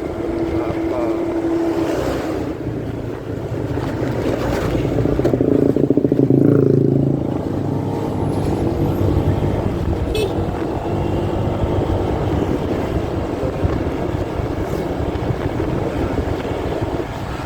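Muffled motorcycle riding noise, engine and wind rumble heard through the fabric of a pocket, with most of the sound low and dull. It swells louder for a couple of seconds around six seconds in, and there are a few faint clicks later on.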